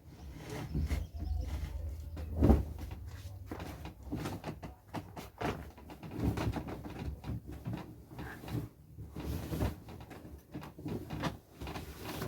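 Bedding being handled while a bed is made: rustling of sheets with irregular knocks and bumps, the loudest a single thump about two and a half seconds in.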